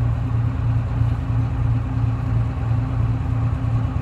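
Detroit Diesel 6V71 two-stroke diesel engine of a GMC New Look transit bus running steadily, a low even drone with no revving.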